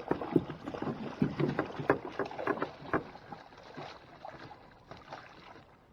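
Hooked bowfin thrashing and splashing at the water's surface during the fight, a run of irregular splashes that dies down about halfway through.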